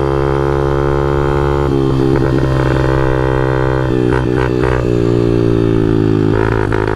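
Honda CRF50 pit bike's small single-cylinder four-stroke engine running at a steady pitch through a long wheelie, with the note shifting about two and four seconds in. It is bogging: held too far back for too long, it loses power.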